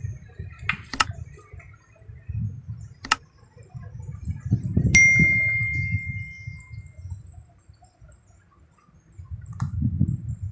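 A few sharp clicks and one bright metallic ding about five seconds in that rings on for about two seconds, over low rumbling noise.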